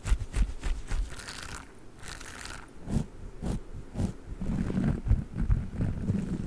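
Close-miked objects handled by hand: quick taps and clicks, two short brushing sweeps, then a denser run of soft low thuds and rustling from about two-thirds of the way in.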